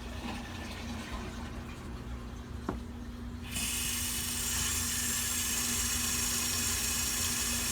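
Water tap turned on about three and a half seconds in, then water running steadily, with a faint click just before. The tap is run to draw down the tank and make the well pump cut in.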